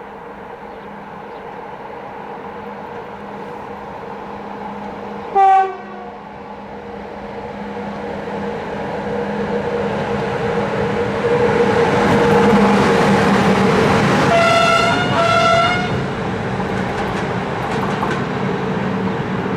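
Romanian CFR class EA electric locomotive approaching and passing with its train, a steady electric hum under growing rolling noise. One short horn blast comes about five seconds in, then two short blasts as it comes by. Faint clicks of wheels on jointed rail follow near the end.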